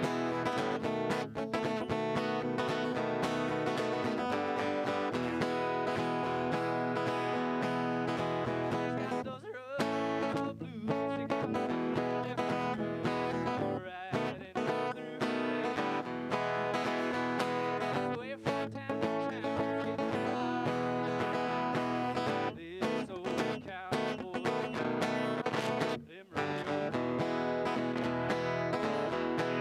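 Country music played on guitar with strummed chords and no singing: an instrumental stretch of the song, with brief breaks about ten seconds in and near the end.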